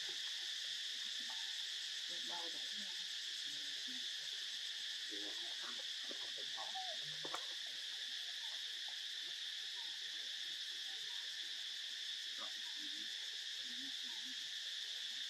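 Steady, high-pitched chorus of insects shrilling without a break, with faint scattered sounds beneath it and a single sharp click about seven seconds in.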